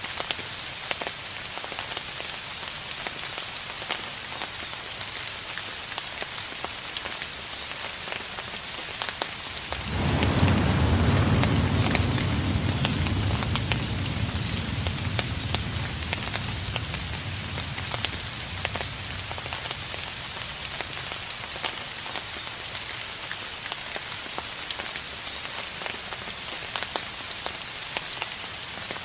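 Steady rain falling, with many single drops ticking through the hiss. About a third of the way in, a distant thunder rumble comes in suddenly, deep and low, then fades away over several seconds.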